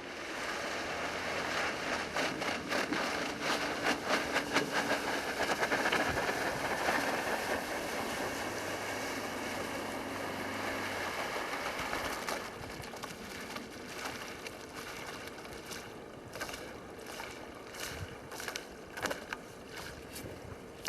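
Water rushing against a small jon boat's hull under way, with wind on the microphone and its Mercury 8 hp four-stroke outboard heard faintly at times. About twelve seconds in the rush drops, leaving irregular slaps and splashes.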